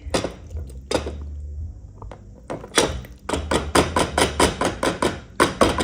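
A metal kitchen utensil or pot knocked against a cooking pot: a few separate knocks, then from about halfway a fast run of about six knocks a second, shaking loose macaroni that sticks.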